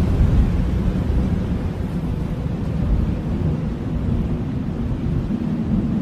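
Blizzard wind blowing steadily in a deep, low rumble, swelling and easing slightly.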